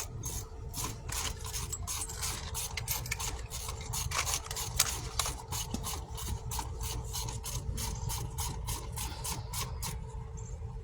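Quick clicking and scraping of metal hand tools at work on a car, about three to five clicks a second, over a steady low hum.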